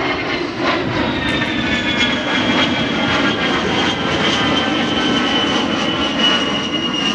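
A-10 Thunderbolt II's twin General Electric TF34 turbofans passing in a flyby: a loud, steady jet rush with a high whine that slowly falls in pitch as the aircraft goes by.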